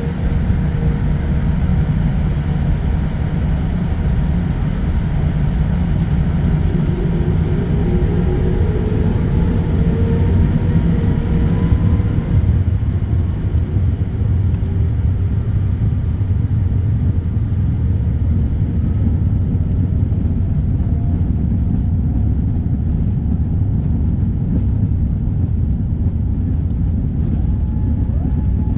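Loud, steady rumble of a Boeing 787-9's Rolls-Royce Trent 1000 jet engines and airframe heard from inside the cabin during take-off, with faint rising whines in the first half.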